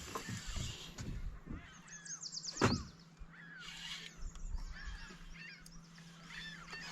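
Songbirds chirping and calling, many short rising and falling notes, with one sharp knock about two and a half seconds in.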